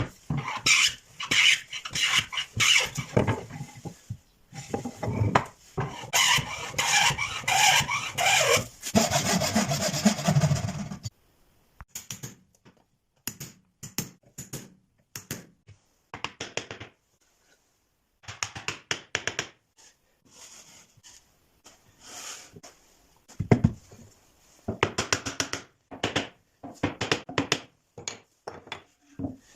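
Hand tools working wood: rapid scraping strokes in dense runs for about the first eleven seconds, then scattered short taps, clicks and brief bursts of strokes.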